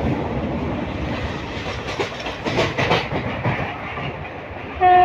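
Passenger train running, heard from inside the carriage: a steady rumble with the wheels clattering over rail joints. Just before the end the train's horn starts, a steady loud blast.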